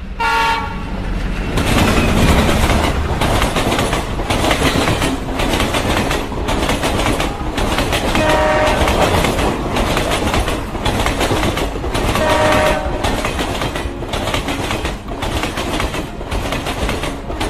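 A train running with a steady rhythmic clatter of wheels over the rail joints. A train horn sounds three times: right at the start, about eight seconds in, and again about twelve seconds in.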